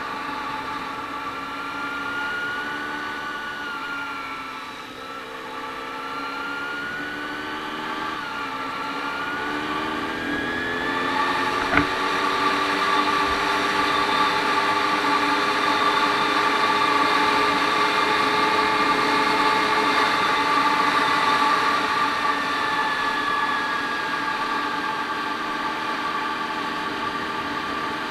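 Honda VFR400 NC30's 400 cc V4 engine running while riding. Its pitch dips and rises with the throttle, climbs about ten seconds in and holds steady, then eases down near the end. A single sharp click sounds just before twelve seconds.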